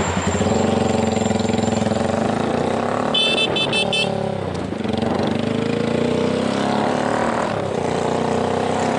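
Motorcycle engine running, its pitch rising and falling as the throttle opens and closes. A quick run of about five high-pitched beeps sounds about three seconds in.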